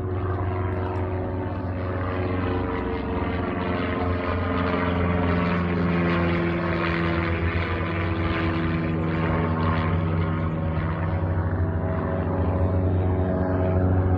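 Propeller-driven light aircraft engine running with a steady droning hum that grows gradually louder.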